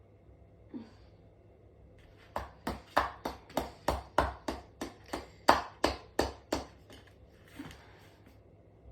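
A tumble dryer's metal casing being struck again and again: a quick, even run of about fifteen ringing metallic bangs, three or four a second, with a single lighter knock before and after.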